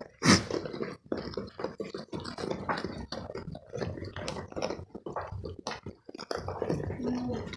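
Goats chewing and crunching wheat grain: a dense run of irregular crunches and crackles, the loudest under a second in.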